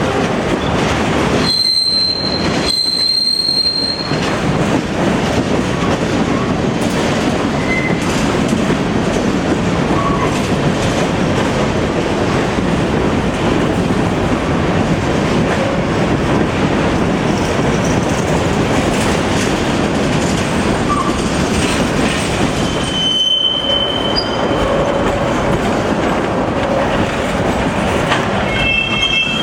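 Train cars rolling past close by on the track, a steady loud rumble and clatter of wheels on rail. High-pitched wheel squeals cut in briefly about two seconds in, again around twenty-three seconds, and once more at the end.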